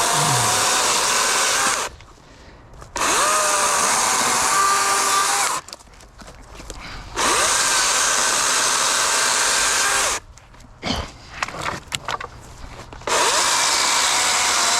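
DeWalt 60-volt brushless cordless chainsaw with a 16-inch bar cutting through logs in bursts of about three seconds, four times; the motor stops fully between cuts. A few knocks in the pause near the middle.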